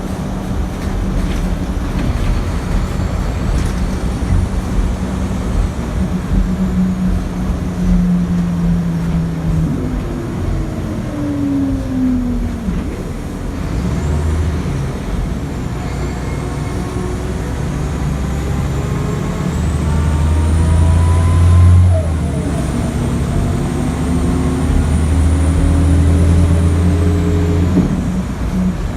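Scania L94IB city bus's diesel engine and ZF 5HP500 automatic gearbox under way. The engine pitch falls as the bus slows, then climbs as it accelerates, drops briefly at a gearshift and climbs again. A faint high whine rises and falls with speed.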